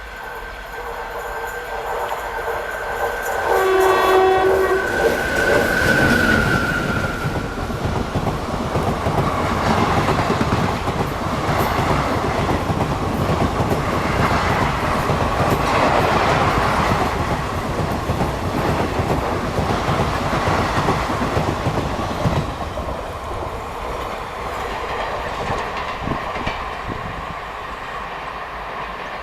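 Indian Railways express train passing at speed: the locomotive's horn sounds in long held tones for the first several seconds. Then the coaches rush by with wheels clattering over the rail joints, and the noise eases off near the end.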